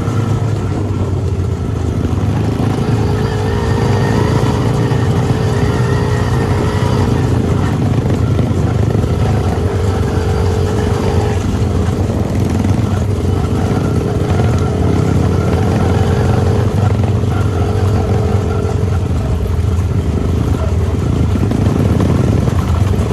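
Dirt bike engine running continuously while being ridden, its pitch wavering slightly with the throttle.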